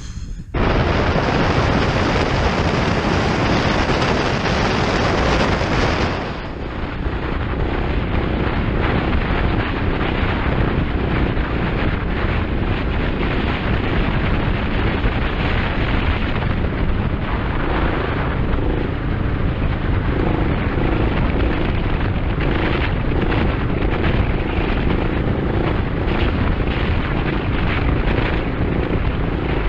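Motorcycle running at speed, its engine drone half buried under heavy wind rush on the microphone. The sound changes abruptly about six seconds in, with less high hiss afterwards.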